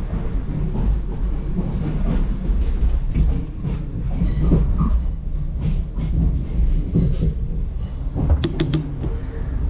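Cabin noise of a moving Class 465 Networker electric multiple unit: a steady low rumble of wheels on rail, with a short run of clattering clacks about eight seconds in.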